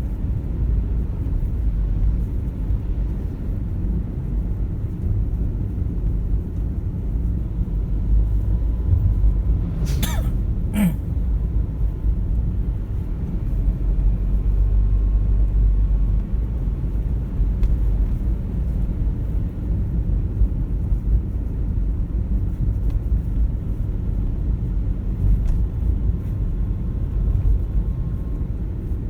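A car driving, with a steady low rumble of engine and road noise. Two short sharp clicks come about ten seconds in, less than a second apart.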